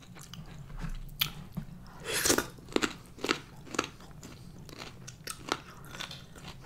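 A person chewing crunchy food close to the microphone: a string of separate crunches, the loudest a little after two seconds in.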